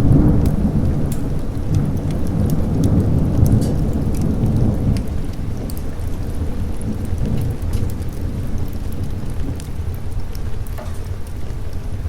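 A roll of thunder rumbles, loudest over the first five seconds or so, then eases into steady rain with scattered sharp drop ticks.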